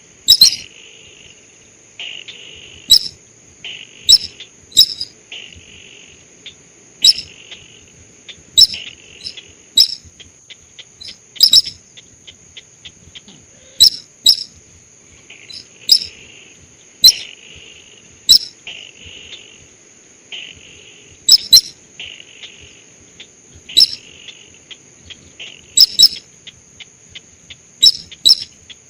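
Lure-call recording of the sintar sawah paddy-field bird: loud, sharp short calls, often in pairs, repeating every second or two, alternating with buzzy rasping notes. A steady high insect-like trill runs underneath throughout.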